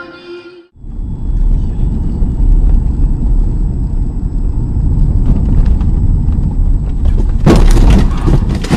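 A car driving, picked up by a dash camera inside the car: a loud, steady low rumble of road and engine noise. About a second before the end, a louder burst of noise cuts in briefly.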